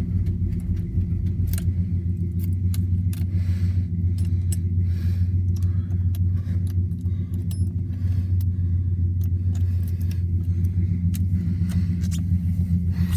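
Old Chevy pickup engines idling steadily after a cold start, with scattered clicks and jingles, like keys, over the engine sound.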